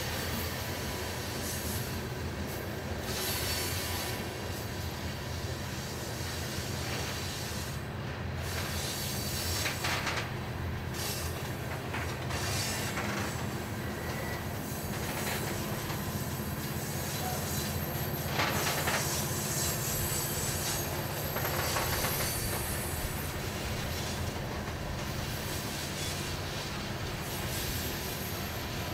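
Loaded coal hopper cars rolling by on a curve: a steady rumble of steel wheels on rail, with the wheels squealing now and then, loudest a few times through the passage.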